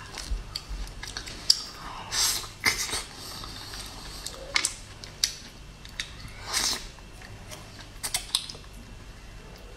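Close-miked chewing of soft, creamy durian flesh: irregular mouth smacks and lip clicks.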